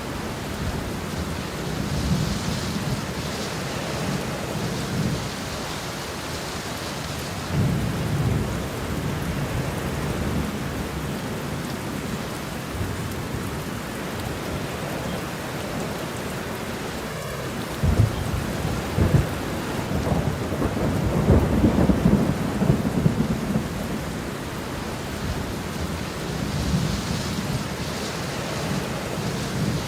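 Steady rain with rolling thunder. Low rumbles swell several times, and the loudest, with sharp cracks, comes about two-thirds of the way through.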